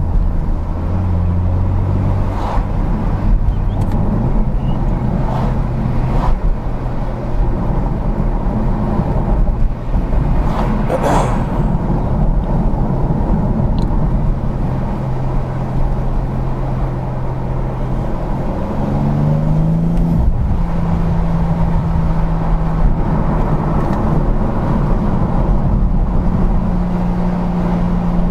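BMW M4 Competition (G82) twin-turbo straight-six engine running at a steady cruise on its stock exhaust. Its tone holds for stretches and steps up quickly about two-thirds of the way through as the car picks up speed.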